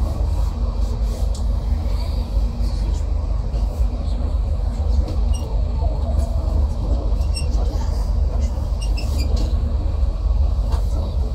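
Passenger train running at speed, heard from inside the carriage: a steady low rumble of wheels on the track with a faint hum and a few light ticks.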